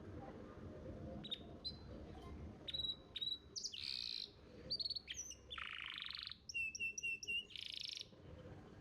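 Domestic canary singing: a run of sharp chirps, whistled notes and buzzy trills that starts about a second in, with four quick repeated notes near the end, over a faint low rumble.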